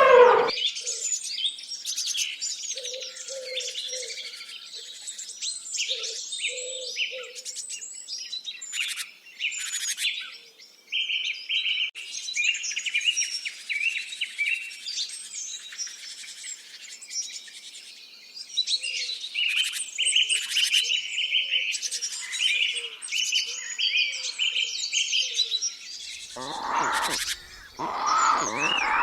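Several birds chirping and singing at once, with short repeated trilled phrases and soft low notes in the first few seconds. A louder, coarser animal call comes in near the end.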